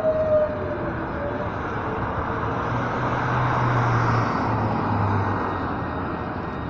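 Southeastern Class 395 'Javelin' electric train pulling into the platform. Its running noise swells to a peak about four seconds in, then eases as it slows, with a low hum through the middle.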